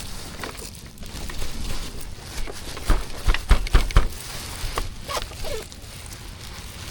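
Dense reeds and swamp grass rustling and crackling as they are trampled and pressed down underfoot, with several heavy thumps about three to four seconds in.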